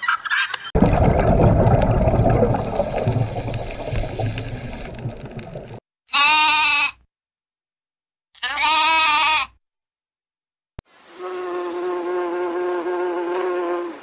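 A loud rushing noise for about five seconds, then a lamb bleating twice, each bleat about a second long. Near the end comes a steady buzz from a bumblebee.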